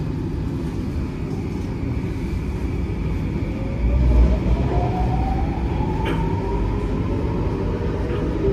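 Singapore MRT train running with a steady low rumble. From about three seconds in, an electric motor whine rises steadily in pitch as the train gathers speed.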